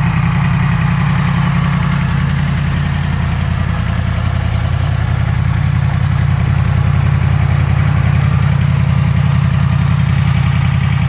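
Yamaha MT-10's 998 cc crossplane inline-four idling steadily through its stock exhaust, warmed up after a few minutes' running. The note stays even with no revving.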